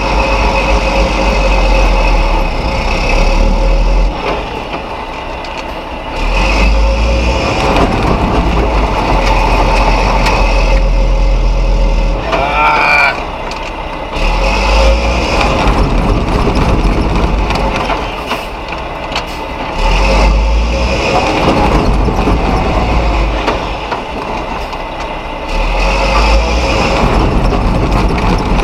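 Mack RB concrete truck's diesel engine revving hard and dropping back, over and over, as the loaded truck strains to climb out of soft sand where it is stuck. There is a brief rising whine about halfway through.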